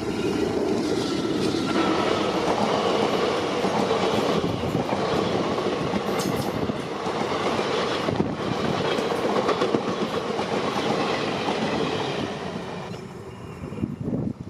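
Express train hauled by an electric locomotive running past at speed: a continuous loud rumble with wheels clattering over the rail joints, dying down near the end.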